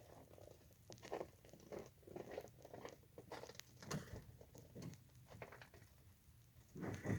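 Faint, scattered clicks, scrapes and crunches of a phone being handled and footsteps on frozen ground. Near the end a louder, fuller sound starts, with a steady high tone running under it.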